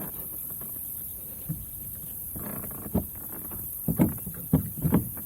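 A few dull knocks and bumps from gear being handled, one about three seconds in, then a quick cluster of four near the end, over a steady outdoor background.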